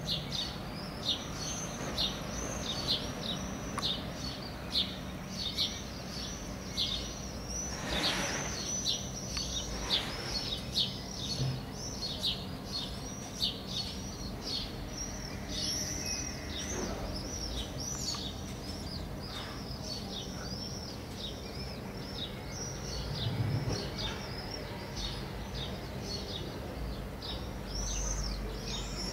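Small birds chirping constantly, short high chirps several times a second, over a faint low steady background rumble.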